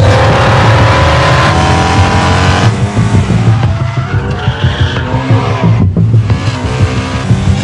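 Race car engine revving, its pitch climbing over the first two to three seconds, with tyres skidding. The sound cuts out sharply about six seconds in, then picks up again.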